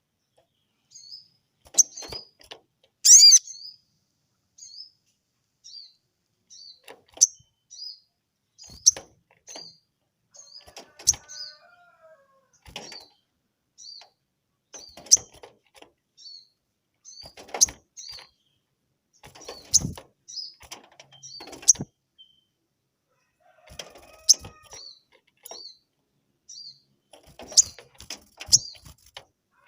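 Agitated sogon bird giving short, high chirps over and over, about one a second, many dropping in pitch, with sharp taps and wing flutters as it hops and flaps in its cage. This is its aroused response to a rival's call.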